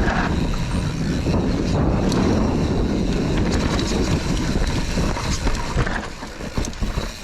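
Wind rushing over the microphone, with the rattle and clatter of a mountain bike riding fast down a rough dirt trail. The noise eases off about six seconds in.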